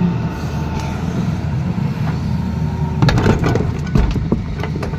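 Tata Hitachi excavator's diesel engine running steadily. About three seconds in, a quick run of knocks and scrapes begins as the bucket cuts into the road.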